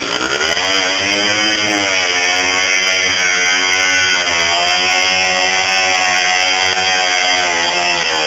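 Minsk motorcycle's two-stroke single-cylinder engine running under throttle. Its pitch climbs in the first second, dips briefly, rises again and holds high, easing slightly near the end.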